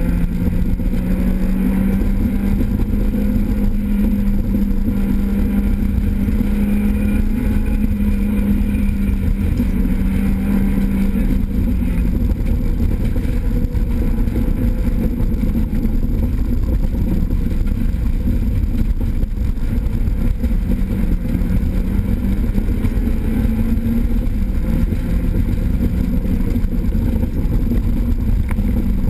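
Renault Clio 16S rally car engine running hard, heard from inside the cabin at speed on a stage, its note wavering up and down a little with the throttle. Heavy road and mechanical noise fills the cabin underneath.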